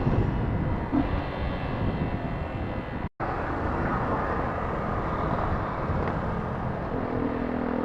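Motorcycle engine running on the move under a dense rushing noise. The sound drops out completely for a moment about three seconds in, and a steady engine note comes up near the end.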